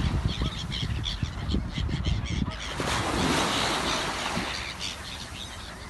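Wind rumbling on the microphone at the shore, with a wave washing in about three seconds in, and bird calls over it.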